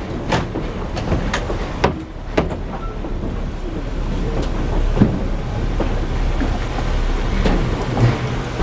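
Narrow-gauge steam train's passenger car rolling along the track: a steady low rumble with scattered sharp clanks and knocks from the wheels and couplings.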